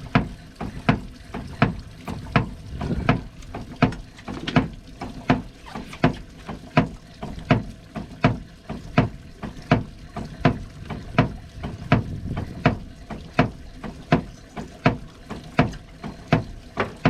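Boat hull being thumped in a steady rhythm, one sharp knock about every three-quarters of a second: striper thumping, done to draw striped bass up under the boat.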